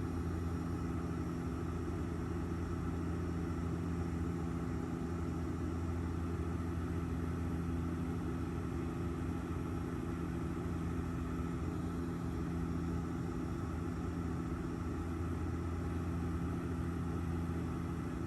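Steady in-flight cabin noise of an airliner: an even engine drone with a low hum and several steady tones under it, unchanging throughout.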